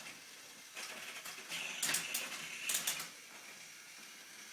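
Plastic toy trains and track clicking and rattling, with clusters of sharper clacks about two and three seconds in.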